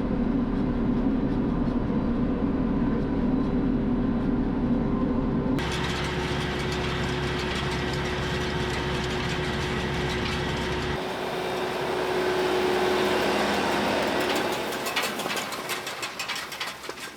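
Tractor engine running steadily with a wire-tie square baler working behind it, heard in a few short clips one after another. Near the end comes a quick run of sharp knocks.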